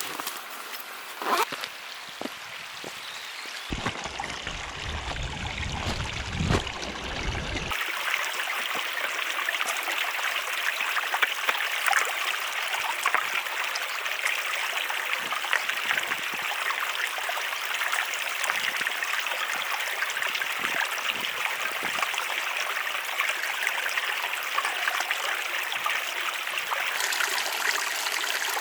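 Steady rush of running water, like a small stream, with a change of shot from about 4 to 8 seconds in that carries heavier low rumble.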